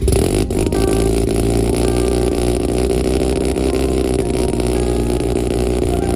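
A car engine cold-starting: it fires abruptly and runs at a loud, steady fast idle.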